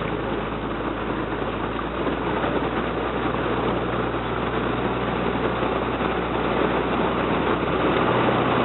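Slow riverboat's engine running steadily, a continuous low drone; one of its low tones shifts slightly about two seconds in, and it grows a little louder near the end.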